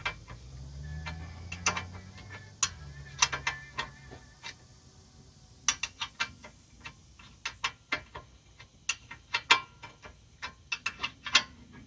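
Ratchet wrench clicking in irregular runs, with sharp metallic clicks and clinks, as a socket turns a bolt on the power steering pump mounting.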